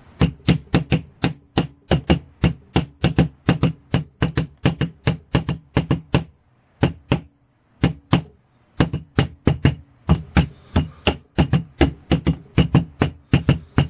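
Rapid run of sharp knocks or taps, about three to four a second, with a brief break a little past the middle, made to set off the belt's sound-activated lights.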